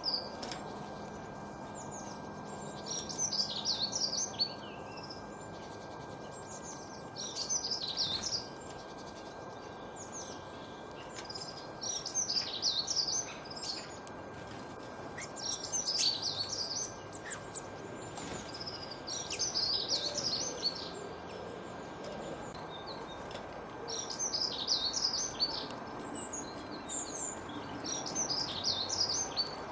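Bird song: short phrases of rapid high chirps, repeated every few seconds, over a steady background hiss.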